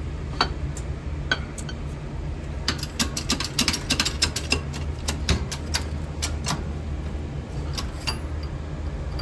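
Light, sharp taps and clicks from pattern pieces being pressed and worked into a casting mould, with a quick run of about a dozen taps in the middle. A steady low hum runs underneath.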